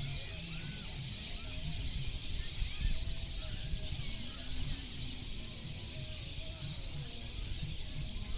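Several birds calling: many short arching chirps and repeated short, level notes, over a steady high hiss and a low rumble.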